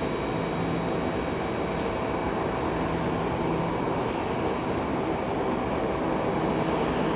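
Steady rumble of a Boeing 737-800's CFM56-7B jet engines on takeoff, with a faint steady whine on top, growing slightly louder toward the end.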